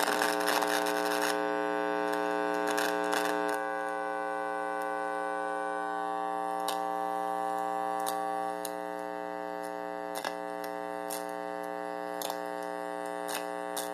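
Guitar amplifier with bare wires attached to its input, putting out a steady electrical buzz with many overtones and scattered sharp clicks. The buzz steps down in loudness a few times as its upper overtones drop out. The owner takes it for incoming V2K.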